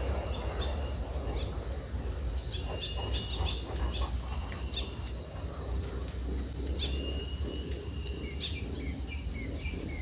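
Steady high-pitched drone of insects, with short bird chirps scattered through, several of them together a few seconds in.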